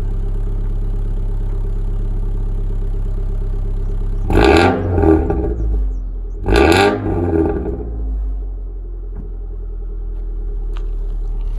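2008 Subaru Impreza 2.5i's flat-four engine through a DNA Motoring aftermarket exhaust, heard at the tailpipe: idling steadily, then revved twice a couple of seconds apart near the middle, each rev swelling and falling away before it settles back to idle. The owner finds the note a rattling, Honda-like sound rather than the rumble he expects from a Subaru.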